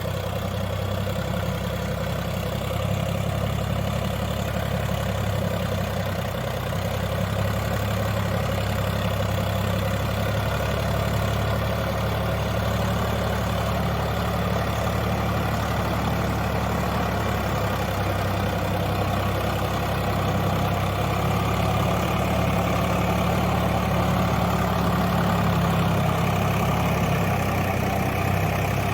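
Swaraj 744 FE tractor's three-cylinder diesel engine running steadily as the tractor works in mud, a low even drone that grows slightly louder near the end.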